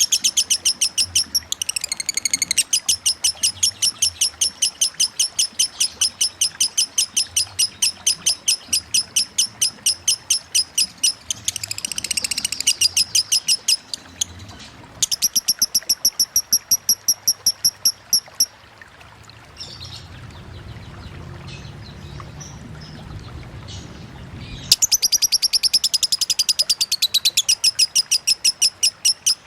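A lovebird chattering in its long ngekek song: fast runs of high, repeated chirps, about five a second, in three long bouts with a pause of several seconds between the second and third. A low, steady rush of running water sits underneath.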